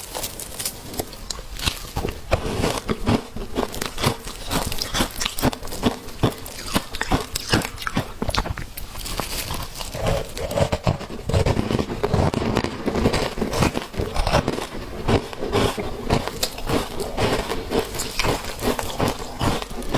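Frozen matcha ice being bitten and chewed: a dense, irregular run of sharp crunches and cracks, several a second.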